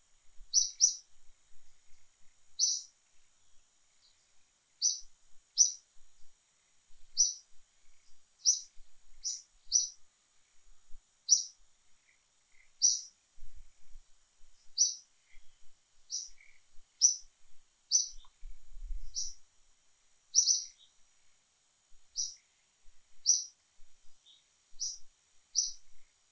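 A bird chirping repeatedly: short, sharp, high chirps every second or two, some in quick pairs.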